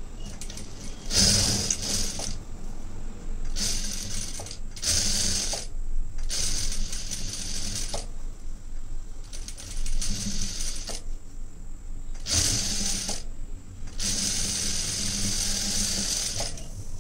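Sewing machine running in short bursts of stitching, with brief stops between runs, as darts are sewn to shape the bust of a blouse piece.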